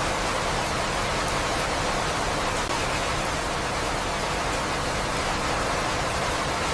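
Steady rain, an even unbroken hiss with no single drops or thunder standing out.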